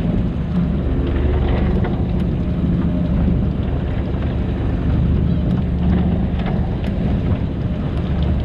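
Fishing boat engine running steadily, with wind and water noise.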